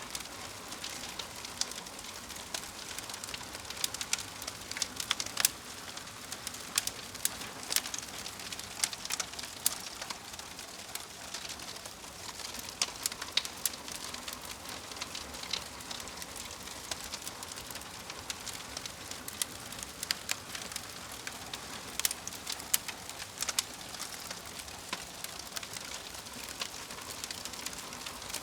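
Wood fire crackling: a steady soft hiss with frequent irregular sharp pops and snaps.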